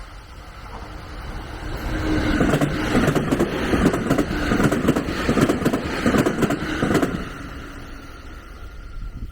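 A train passing close by: the noise builds over a couple of seconds, stays loud with rapid clattering for about five seconds, then fades away.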